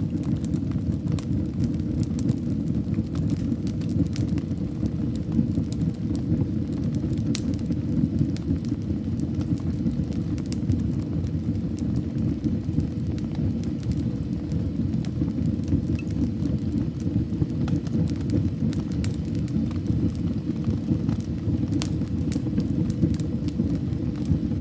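Fire burning in a fireplace: a steady low rumble of flames with frequent sharp crackles and pops scattered throughout.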